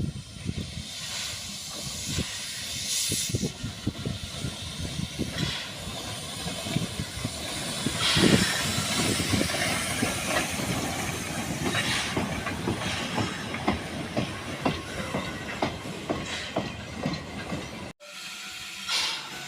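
Steam locomotive running, with a steady hiss of steam, surges of louder hissing and irregular knocks and clanks from the running gear and rails. The sound breaks off about eighteen seconds in.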